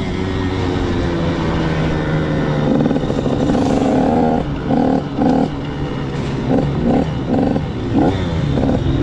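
Motocross bike engine running steadily. About halfway in, the throttle is opened and closed in quick repeated blips, two or three a second.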